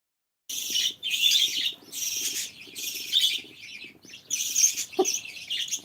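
Pet birds chirping in quick, overlapping bursts of high calls, starting suddenly about half a second in.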